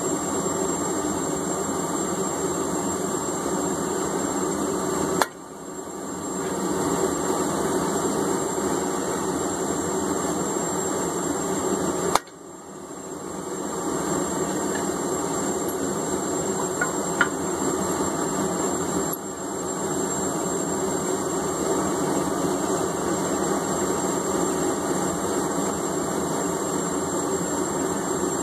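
Steady roar of a running forge, with single sharp metal strikes about 5, 12 and 17 seconds in. After the first two strikes the roar drops suddenly and swells back up.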